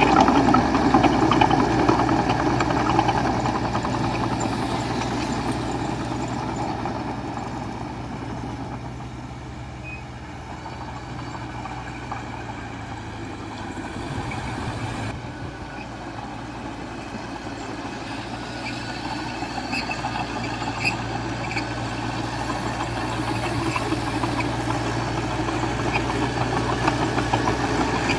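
Diesel engine of a small D20A bulldozer running: loud at first, easing off around the middle, then building up again toward the end.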